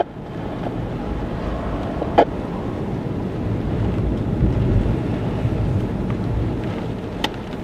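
Gusty storm wind blowing across the microphone as a steady low rumble, with two short clicks, one about two seconds in and one near the end.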